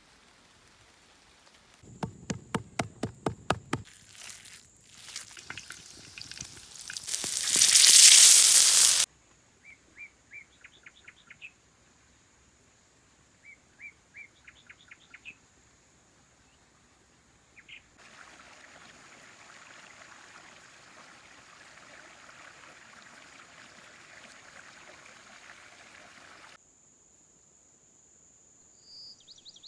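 A string of separate outdoor sounds with hard cuts between them. First comes a run of rapid, even clicks, then a rushing noise that swells to the loudest point and stops abruptly at about nine seconds. Then come short series of bird chirps and a steady hiss lasting about eight seconds.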